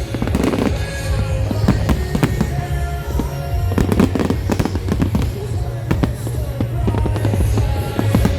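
Fireworks display: many overlapping bangs and crackles from bursting shells, one after another, with music playing alongside.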